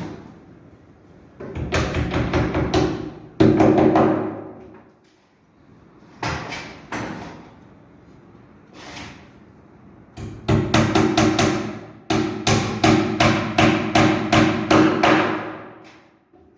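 Hammer striking wood in runs of quick blows, about three a second at the fastest, each blow ringing briefly; the longest run comes near the end.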